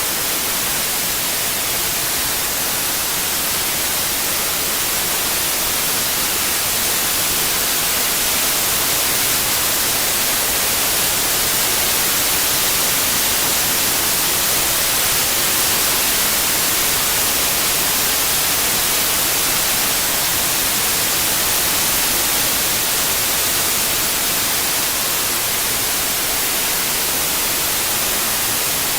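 Steady synthetic white noise, an even hiss weighted toward the high end, with a slight slow swell and fade in loudness from the 8D panning effect.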